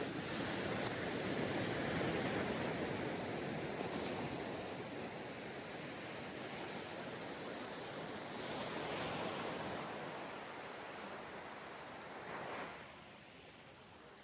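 Sea waves breaking and washing up a sandy beach, with a surge right at the start, another around the middle, a smaller one near the end, and a lull just before the end.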